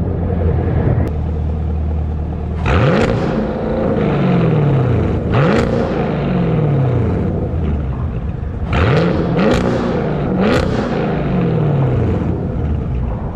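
2023 Chevrolet Camaro SS's 6.2-litre V8, straight-piped through a muffler and secondary-cat delete, idling and then blipped about five times. There are two single revs, then three in quick succession near the end, each rising sharply and falling slowly back toward idle.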